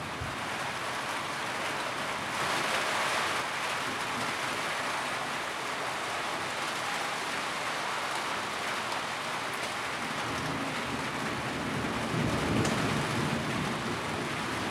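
Steady rain drumming on a tin roof, heavier for a second or so near the start. A low rumble swells in the second half, like distant thunder.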